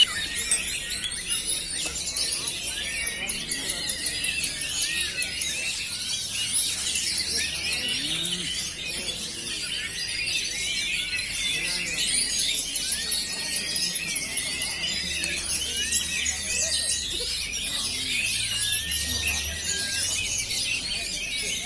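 Many caged oriental magpie-robins (kacer) singing at once: a dense, continuous chorus of overlapping high chirps, trills and whistles.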